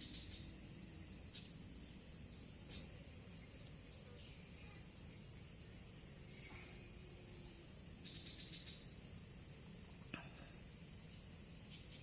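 Forest insect chorus: a steady, high-pitched trilling that holds throughout, with a few faint short calls and clicks over it, including a quick pulsed run about eight seconds in.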